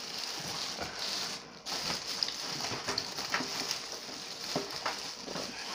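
Steady high sizzling, with scattered small clicks and crackles from handling food and cookware.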